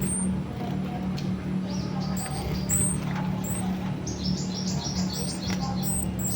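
Small caged songbirds chirping: short, very high notes about once a second, and a quick run of rapid notes about four seconds in. A steady low hum runs underneath.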